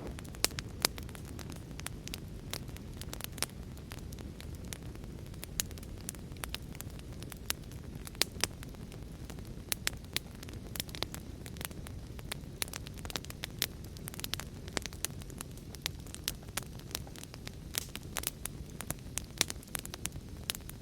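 Wood fire crackling in a fireplace, with frequent sharp, irregular pops over a steady low background noise.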